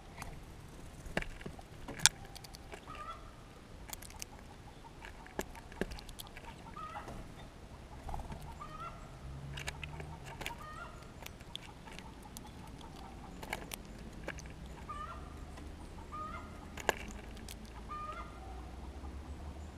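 Birds calling in short, upward-sliding notes repeated every second or two, mixed with scattered sharp clicks and taps.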